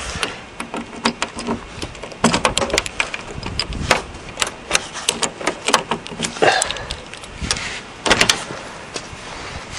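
Keys and car door being handled: a run of irregular clicks and knocks, with a few longer scrapes.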